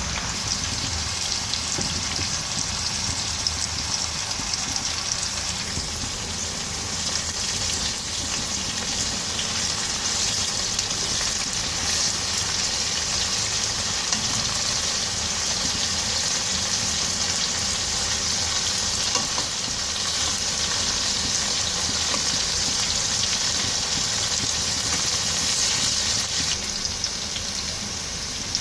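Marinated chicken tikka pieces frying in a pan: a steady, dense sizzle with fine crackles throughout.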